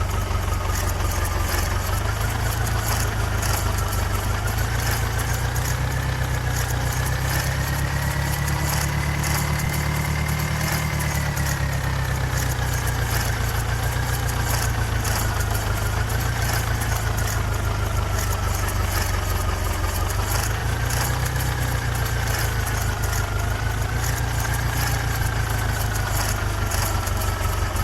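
New Holland orchard tractor's diesel engine running steadily, its speed rising slowly to a peak about ten seconds in, easing off, then picking up again later, with a thin whine that rises and falls along with it.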